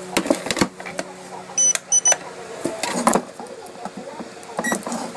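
Clicks and knocks of handling the helicopter and its battery plug, with short high electronic beeps from the RC helicopter's electronics as the 3S battery is connected: three quick beeps about a second and a half in, and another few near the end. A steady low hum runs underneath.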